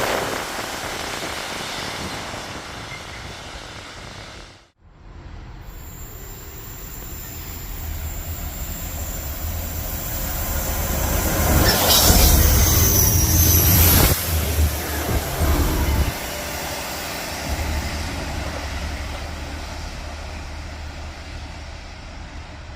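Two Class 66 diesel locomotives hauling a railhead treatment train pass by. A low engine drone builds to its loudest about halfway through, with high-pitched wheel squeal, then fades away. The sound breaks off sharply near five seconds in.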